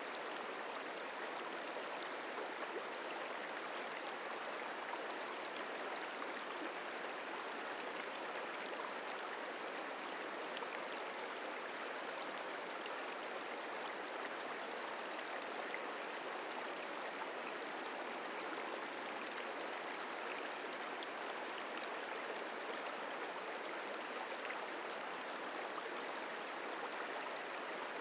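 The Merced River flowing: a steady, even rush of running water.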